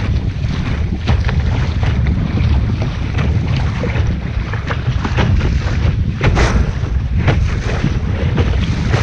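Wind buffeting the microphone on a sailing boat, with water splashing and slapping against the hull in short bursts; the loudest splash comes about six seconds in.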